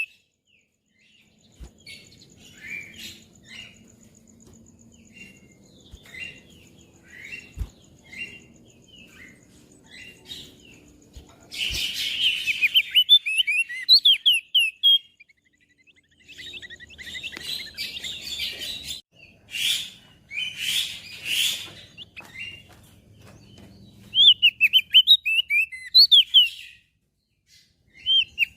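Crested white-eye (opior jambul) singing: fast runs of high twittering chirps in bursts, with quieter scattered single notes between. A few brief hissy bursts come in the middle.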